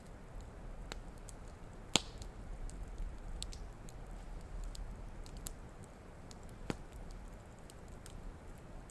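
Wood campfire crackling: scattered sharp pops and ticks, the loudest about two seconds in and another near seven seconds, over a low steady rumble.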